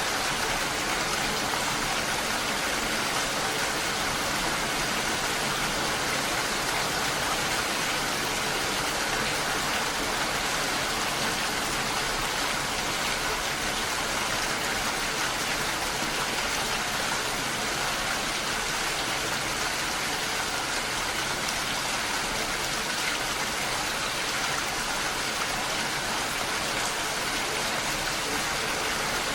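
Steady rain, a dense even hiss of drops with no let-up.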